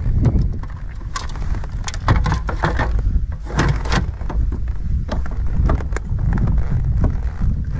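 Low rumble of wind buffeting the microphone, with irregular knocks and clattering, busiest about two to four seconds in.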